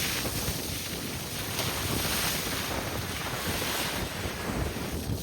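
Wind buffeting the microphone over the steady wash of ocean surf at a beach.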